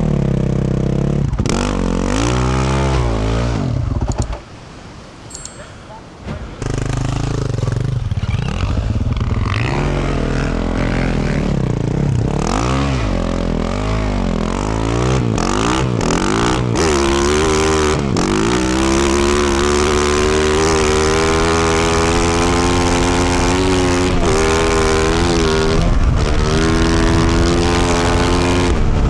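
2024 Yamaha YZ450F's single-cylinder four-stroke engine through a Yoshimura RS-12 exhaust, revving up and falling back again and again under riding load, with a brief quieter dip about four to six seconds in. From a little past halfway it holds a steady high pitch at speed.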